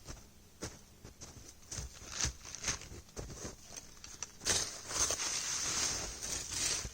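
Snow crunching: a few separate crunches a half second or so apart, then denser, continuous crunching from about four and a half seconds in.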